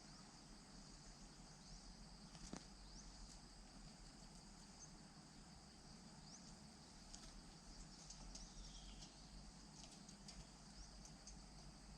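Faint, steady high-pitched drone of insects, with a few faint short chirps scattered through it.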